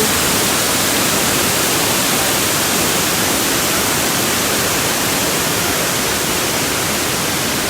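Waterfall: a steady, loud rush of falling water, even across the whole span.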